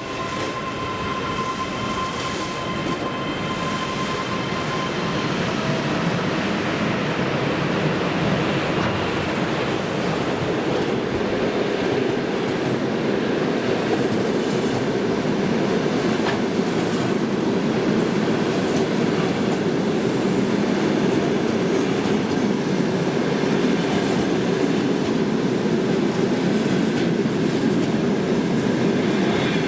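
Passenger train hauled by a Škoda ChS7 two-section electric locomotive passing at speed: a continuous rumble of wheels on rail with clickety-clack over the rail joints, growing slightly louder. A faint thin whine sounds over the first five seconds or so, then fades.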